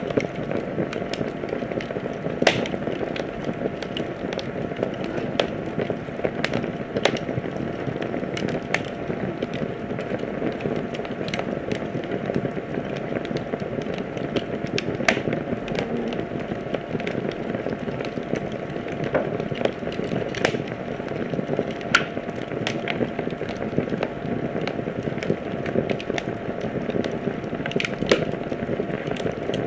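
Wood fire burning in a fireplace: a steady low rush of flame with irregular crackles and sharp pops, a few louder snaps scattered through.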